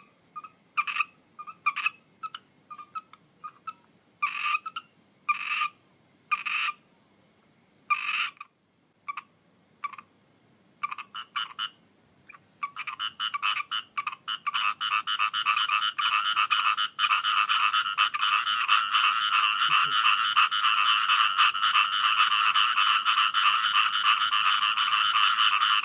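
Frogs calling: scattered single croaks at first, then, from about halfway through, a dense, continuous chorus of rapid pulsing calls. A thin, steady high whine sounds alongside the early calls and stops about halfway through.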